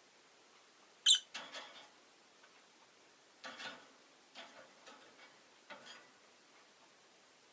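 Rosy-faced lovebirds: one short, sharp, high chirp about a second in, then a few softer, scratchy chirps and clicks over the next few seconds.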